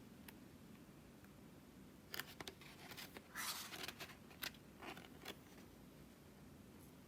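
Hands handling packaging or paper: a cluster of short rustles and clicks between about two and five seconds in, loudest around three and a half seconds, over quiet room tone.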